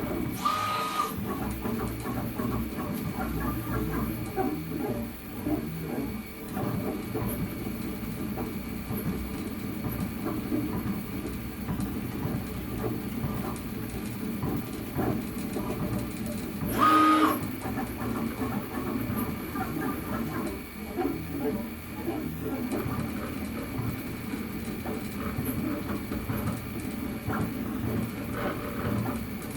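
FDM 3D printer at work printing PETG: its stepper motors whir in short, constantly changing tones as the print head moves, over a steady fan whine. Twice, about a second in and about 17 seconds in, a brief louder high whine stands out.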